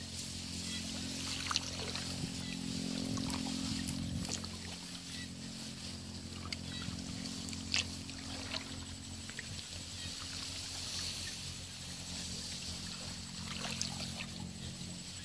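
A small motor running steadily with a low hum, with scattered sharp clicks over it.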